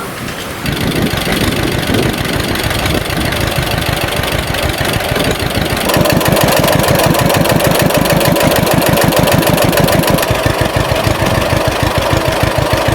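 An engine running with an even, fast beat, getting louder about six seconds in.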